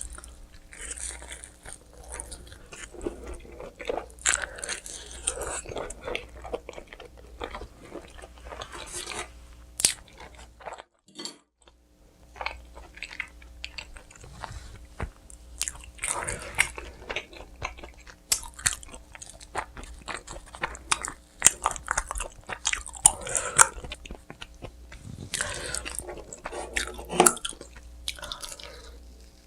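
Close-miked biting and chewing of pizza, with repeated crunches of the crust and wet chewing in between. The sound drops out briefly about eleven seconds in.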